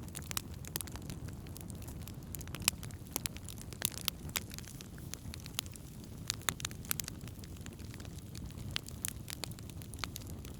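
Wood campfire burning, with many irregular sharp crackles and pops over a steady low rumble of the flames.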